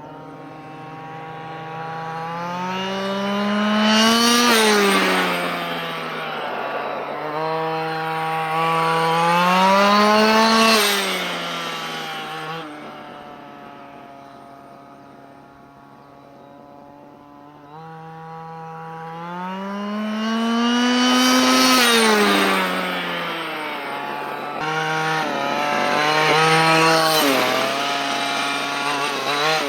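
Dynamite CY23cc two-stroke gas engine of a 1/5-scale Losi Desert Buggy XL running during its break-in. Its pitch and loudness rise and fall back four times, with a quieter, steady stretch in the middle.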